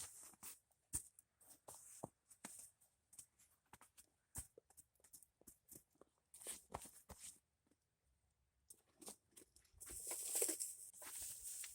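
Small campfire crackling faintly with scattered pops, then a burst of rustling about ten seconds in.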